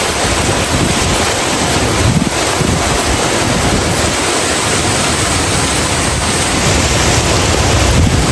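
Heavy tropical rain pouring steadily, with strong wind gusting and buffeting the microphone in low rumbles.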